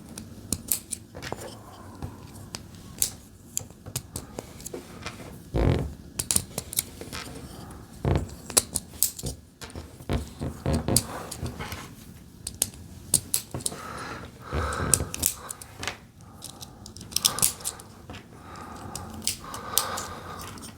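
Small plastic Lego pieces clicking, tapping and rattling as they are handled and pressed together, in irregular sharp clicks with a few busier bursts of rattling.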